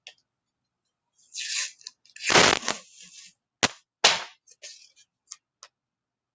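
Adhesive tape pulled off a roll in two rasping rips, the second the louder, followed by two sharp clicks and a few light ticks as it is pressed down.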